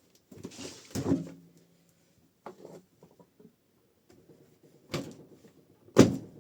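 A few sharp knocks and clacks with rustling between them, like things being handled; the loudest knock comes near the end.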